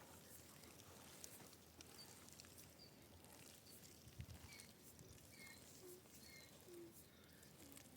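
Quiet outdoor background with a series of faint, short bird chirps and a few soft clicks.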